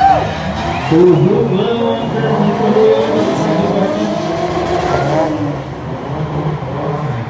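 Several drift cars' engines revving up and down together, their pitches rising, falling and weaving over each other.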